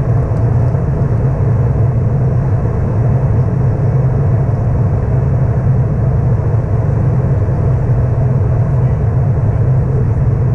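Steady drone of an Airbus A319 cabin in flight: engine and airflow noise, deep and unchanging.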